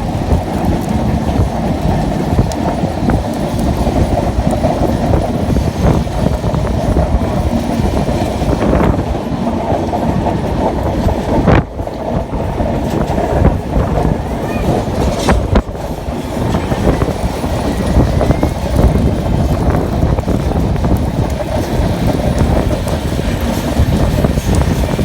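Patna-Kota Express passenger train running through a sharp curve: a loud, steady rumble of wheels on the rails with a couple of sharp knocks about halfway through, and faint brief high wheel squeals just after them.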